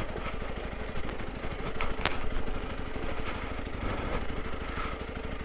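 Honda CRF300L Rally's single-cylinder engine running steadily at low revs, with a few sharp clicks in the first couple of seconds.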